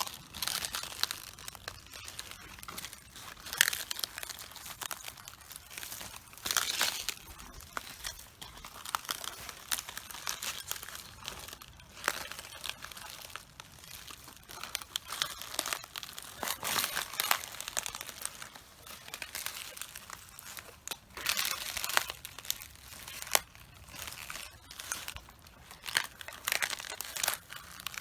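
Footsteps crushing cabbages: leaves crunching, cracking and tearing underfoot in irregular crackling bursts, one or two steps every couple of seconds.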